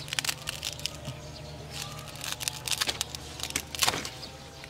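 Mouth sounds of people eating soft, creamy durian flesh: wet chewing and lip smacks heard as an irregular run of short clicks, with a louder cluster of smacks near the end.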